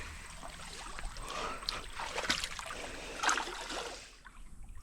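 Shallow creek water trickling and splashing as someone wades through it, with a few sharper splashes like steps in the water, dying down near the end.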